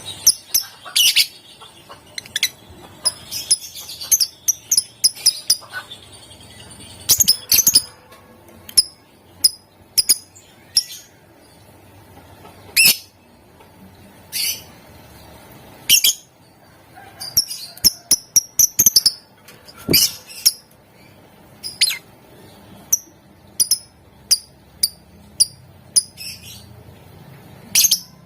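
Lovebirds calling: sharp, high-pitched chirps and squeaks, single and in quick clusters, at an irregular pace.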